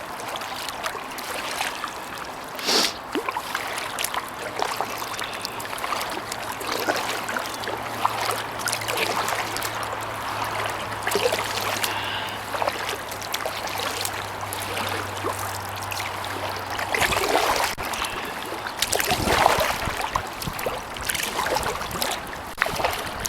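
Kayak paddle strokes: the blades dipping and splashing irregularly, with water trickling and dripping off them. A faint low steady hum runs under it for much of the time, stopping after about 17 seconds.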